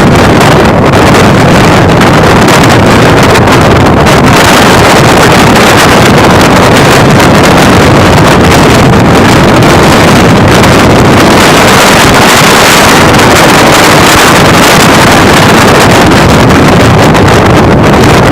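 Moving express passenger train running at speed, its steady running noise mixed with heavy wind buffeting the microphone.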